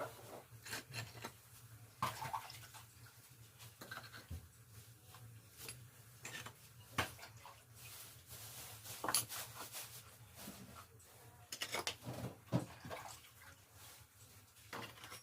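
Faint, irregular scraping and tapping of masonry work: a trowel working mortar and knocking refractory firebricks into place, with a few sharper clinks.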